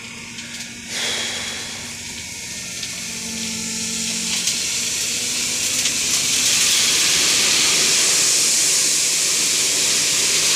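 A load of stone dust sliding and pouring off a tipper truck's raised bed, a rushing hiss that sets in suddenly about a second in and builds steadily louder, over the low hum of the truck's engine.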